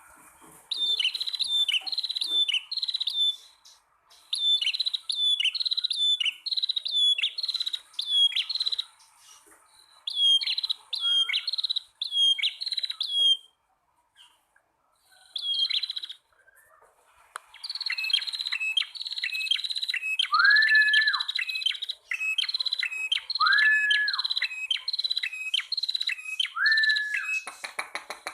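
Prenjak tamu (prinia), male and female, calling: rapid runs of short, high, down-slurred chirps in bursts of a few seconds with short gaps. About two-thirds of the way in, a lower, longer, level note joins, repeating about every three seconds over the chirping.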